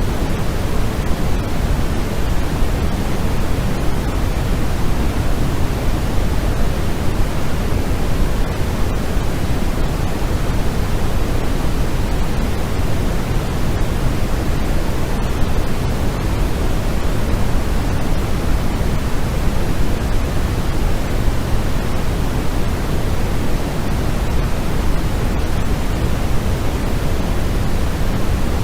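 Steady generated white noise for sleep: an even, unchanging hiss, heaviest in the low end and thinning toward the highs.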